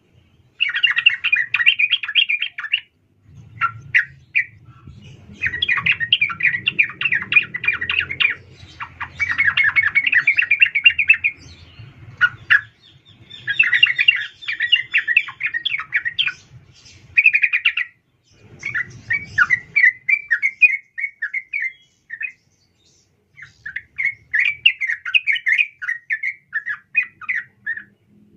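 Female yellow-vented bulbul (trucukan) calling: bursts of rapid, bubbling chatter a second or a few seconds long, repeated with short pauses between them.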